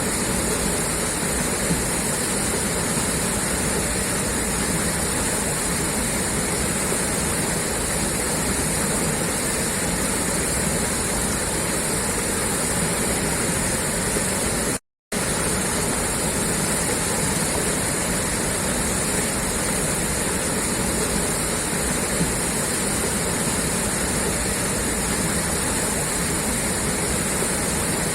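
Water gushing steadily out of a pipe outlet, an even rushing hiss. It cuts out for a split second about halfway through.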